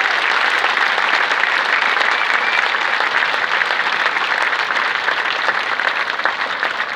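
Large crowd applauding steadily, a dense wash of clapping that begins to thin out near the end.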